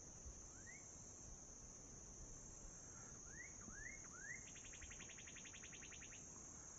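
A songbird singing faintly: one rising whistled note, then three rising notes in quick succession about three seconds in, followed by a rapid trill that lasts under two seconds. A steady high-pitched insect drone, typical of crickets, runs underneath throughout.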